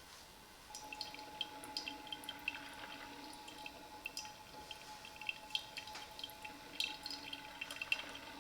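Parkside PKMA 20-Li A1 cordless coffee machine brewing, with coffee dripping and spitting into the cup in quick irregular ticks. A steady whine starts about a second in. The owner hears it as noise from the 20 V battery under the machine's heavy power draw for heating water.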